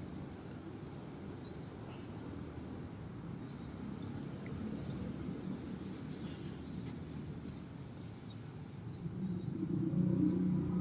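Birds chirping outdoors: short, high, repeated chirps over a steady background hiss. Near the end a louder low sound, likely background music, fades in.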